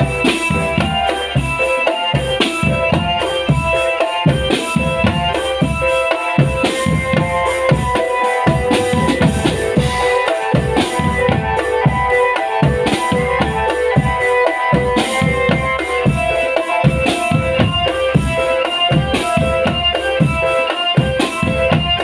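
Marching drumband playing: snare and bass drums beat a busy rhythm under a pitched melody line of changing held notes.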